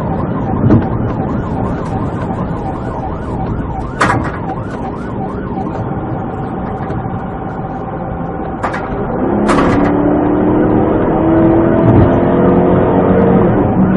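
Police siren sounding over vehicle and road noise: a fast repeating yelp for the first half, then a slower rising tone. Sharp clicks or knocks cut in about four seconds in and twice more around nine seconds.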